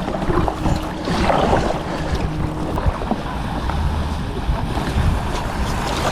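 Kayak paddle splashing and water sloshing as the kayak is paddled along, with wind rumbling on the microphone throughout.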